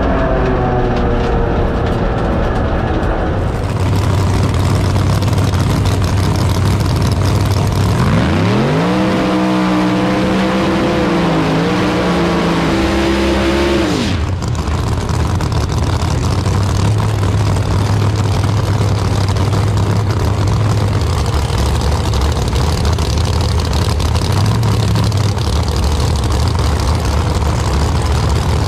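Drag-racing car engines running loudly. About eight seconds in, one engine's pitch climbs and holds at high revs for several seconds, then cuts off abruptly.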